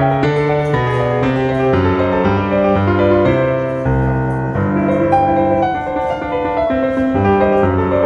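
Background piano music: a slow run of held notes over a bass line.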